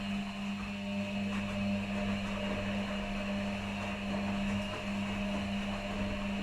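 Washing machines running a quick wash programme: a steady low machine hum with a faint haze of noise above it.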